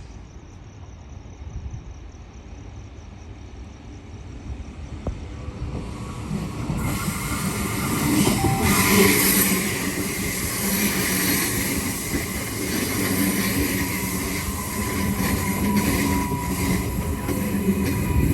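Electric suburban train approaching and running by, its noise building from about six seconds in to a peak near nine seconds, then staying loud with a steady motor whine and wheels on the rails.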